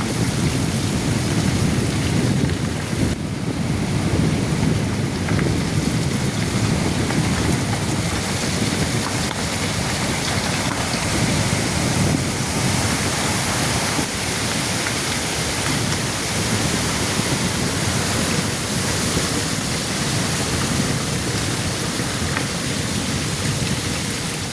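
Heavy rain falling, a steady loud hiss with a low rumble underneath.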